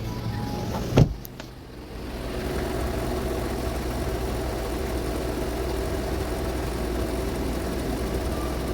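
A sharp knock about a second in, then a car engine running steadily at idle.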